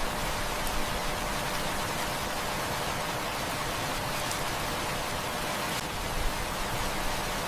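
Heavy rain falling steadily, a dense even hiss, with a few faint pops.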